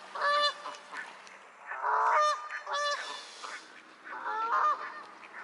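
Waterfowl honking: a series of short, nasal calls, with a harsher, noisier call about two seconds in.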